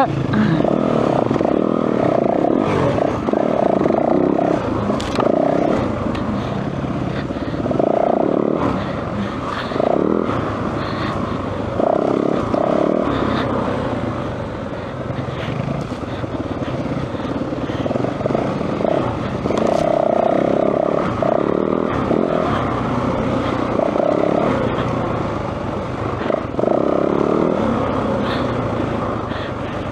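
Yamaha WR450F's single-cylinder four-stroke engine heard from on board, revving up and easing off over and over as the dirt bike rides a trail, with occasional sharp knocks.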